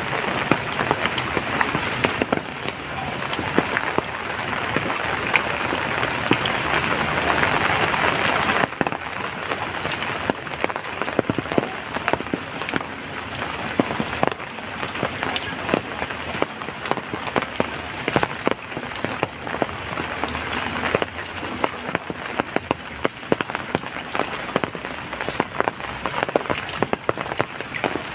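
Heavy rain falling, a steady hiss full of sharp individual drop hits. About eight seconds in, the hiss thins and the separate drops stand out more.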